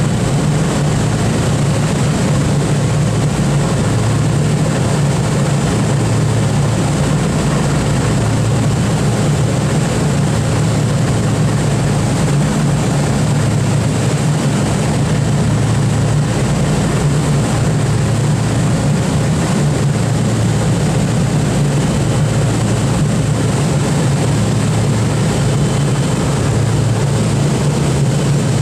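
Piston aircraft engines and propellers running steadily, most likely the B-29 Superfortress's four radial engines: a loud, even, low drone that holds without change.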